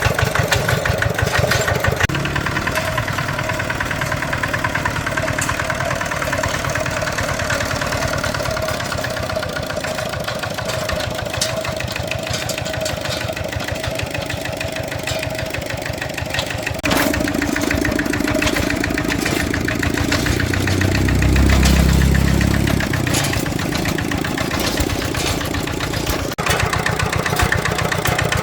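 Farm vehicle engines running with a rapid, even chugging. The sound changes abruptly a few times, as if from one machine to another, and a deeper low rumble swells and fades about two-thirds of the way through.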